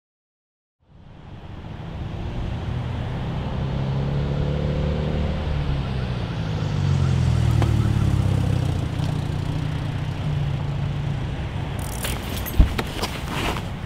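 Car engine fading in and running at low speed, its pitch shifting a little as it swells and then eases off. About twelve seconds in, a sharp click followed by a quick run of clicks and knocks.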